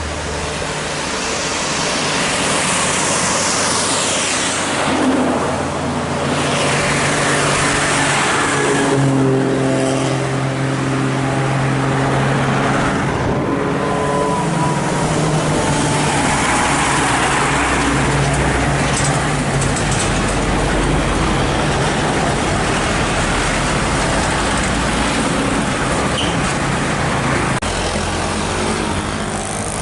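Heavy road vehicles, buses and trucks, passing one after another. Each one brings a rising-then-fading tyre whoosh, and a diesel engine's drone swells midway as one goes by.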